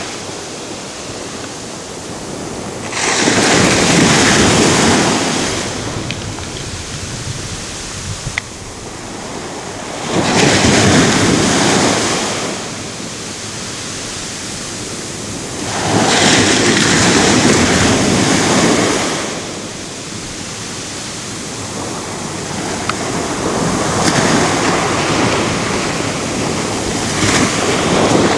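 Ocean waves breaking on a shore: a steady wash of surf with a loud surge about every six seconds, around 3, 10 and 16 seconds in, and a longer build from about 23 seconds to the end.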